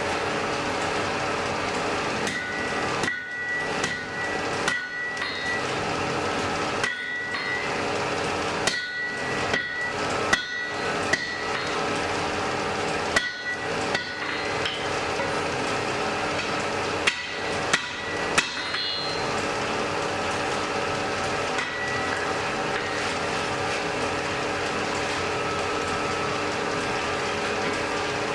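Blacksmith's hammer striking hot iron on an anvil, irregular blows with a bright metallic ring, over the steady rushing hum of the forge fire. The blows come often at first and thin out to almost none in the last third.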